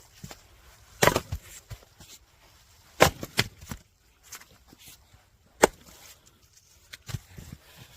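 Firewood being split: a few sharp chopping strikes, irregularly spaced, some followed by a brief crackle of the wood splitting.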